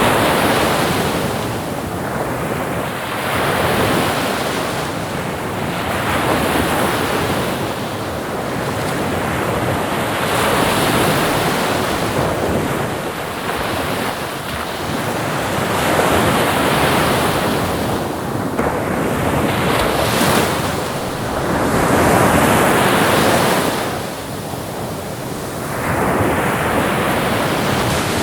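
Ocean waves breaking and washing on the shore, the surf swelling and falling back every two to three seconds.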